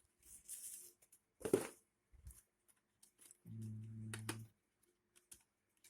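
Box packaging being opened and handled: rustling, a sharp scrape or tear about a second and a half in, a few light clicks and knocks, and a brief low hummed voice in the middle.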